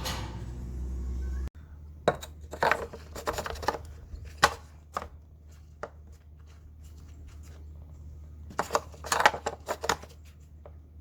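Clattering and knocking of small hard objects, in two bunches of sharp clicks, after a steady hum cuts off abruptly about a second and a half in.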